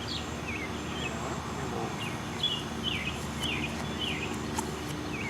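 Small birds chirping in a string of short, quick notes that dip and hook in pitch, over a steady low hum.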